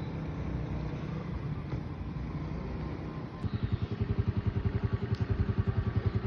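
An engine running. About halfway through, a louder, nearer engine beat sets in: an even pulsing of about ten beats a second.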